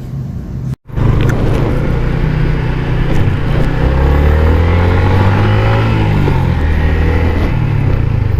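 Motorcycle riding on the road, picked up by an earpiece mic inside the rider's helmet: a steady engine drone mixed with wind noise, starting after a brief silent cut about a second in, with the engine note shifting up and down in pitch in the middle.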